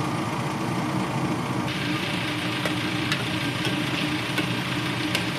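A steady low hum, then from about two seconds in, sweet potato pieces frying in oil in a stainless steel pot: a steady sizzle with scattered crackles and pops.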